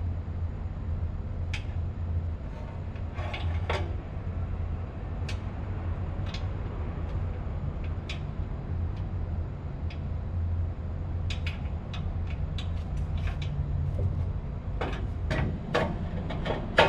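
Steady low hum of running machinery, with scattered sharp metallic clicks and knocks from hand work on the motor and its belt drive, coming thicker near the end.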